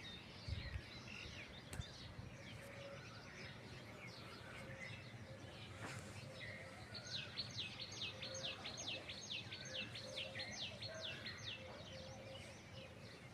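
Morning birdsong: several birds chirping over a steady low background rumble. Midway one bird sings a fast run of about sixteen sharp, downward-sliding notes for about four seconds.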